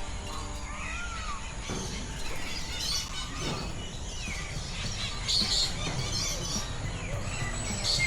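Birds calling: a few short arching calls, then bright clusters of chirps about five seconds in and again near the end, over a steady low rumble.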